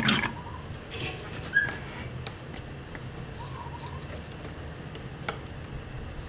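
A brief clatter at the start, then a few light clicks over a low steady hum, with faint bird calls in the background about three and a half seconds in.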